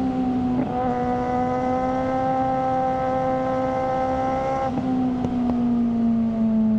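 Suzuki GSR600's inline-four engine through a GPR Ghost exhaust, running at moderate revs. About a second in, the throttle opens and the note fills out and holds steady. Near the end the throttle is eased off and the revs slowly fall.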